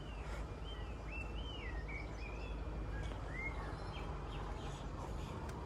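A songbird singing a string of short whistled notes that rise and fall, for the first three seconds or so, over a steady low outdoor rumble.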